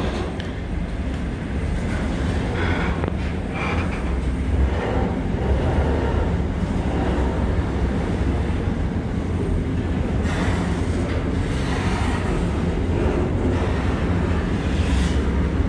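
Container freight train rolling past close by: a steady rumble of its wagon wheels on the rails.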